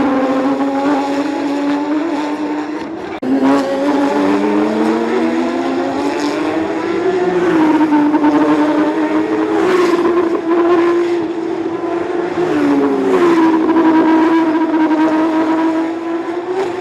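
Porsche 911 GT3 Cup race cars' flat-six engines running hard, the engine note rising and falling as the cars accelerate, change gear and brake, with several cars overlapping. The sound breaks off suddenly and comes back about three seconds in.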